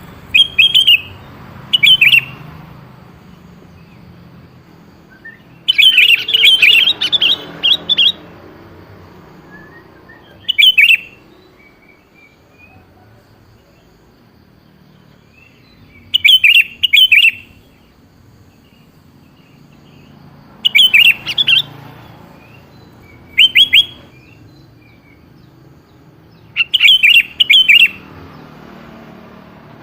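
Sooty-headed bulbul (kutilang) singing: about eight short, bright, bubbling phrases of quick notes, each a second or two long, separated by pauses of a few seconds.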